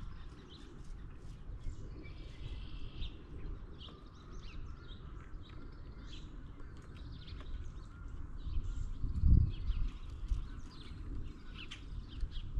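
Wild birds chirping and calling in short scattered notes, over a steady low outdoor rumble, with a soft low thump about nine seconds in.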